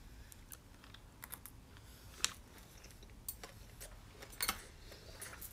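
Faint, scattered clicks and smacks of a person eating, chewing a mouthful of rice wrapped in greens. A sharper click comes about two seconds in and a short cluster about four and a half seconds in.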